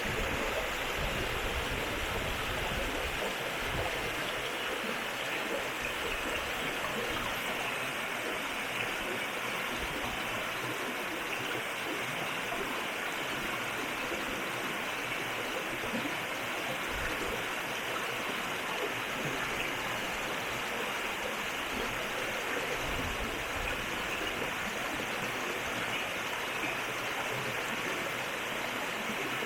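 River water flowing, a steady rushing noise without let-up.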